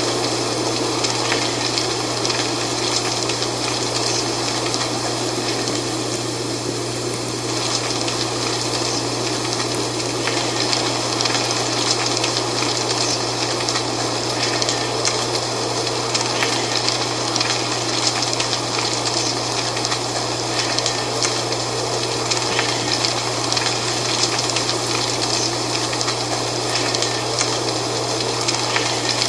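Dry fall leaves rustling in a steady wind, a dense crackling hiss that holds even throughout, with a steady low hum underneath.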